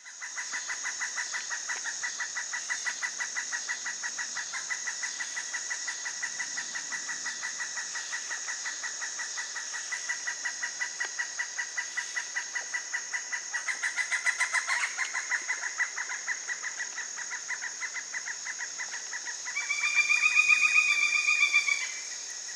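Steady insect chorus, a high pulsing chirr repeating a few times a second. Near the end a pileated woodpecker gives a loud call lasting about two and a half seconds, a rapid run of ringing notes.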